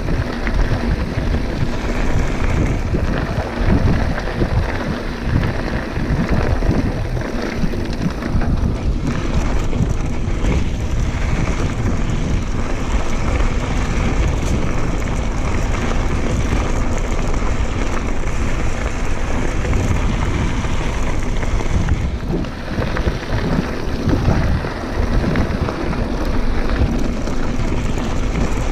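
Wind buffeting the microphone and the rumble of a mountain bike rolling over a rough dirt trail, a steady loud noise with no let-up.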